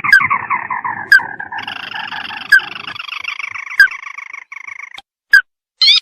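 Crake ('tikusan mata merah') calls from a bird-lure recording: a fast trilling series that slides down in pitch for about five seconds. Sharp single notes cut in about every second and a half, and a short burst of calls comes near the end.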